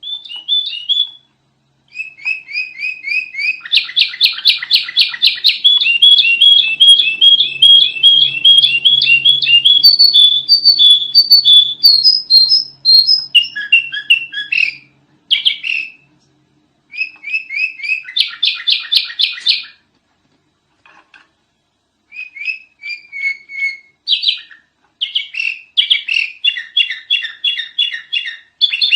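Sooty-headed bulbul (kutilang) singing loudly in fast runs of repeated high chirping notes, several phrases separated by short breaks.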